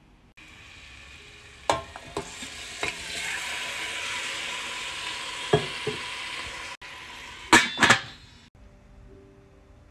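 Raw chicken pieces sizzling in a hot stainless steel pot with onion and garlic, with several knocks of the metal bowl against the pot as the chicken goes in. Near the end come two sharp, ringing metal clanks as the stainless lid is set on the pot.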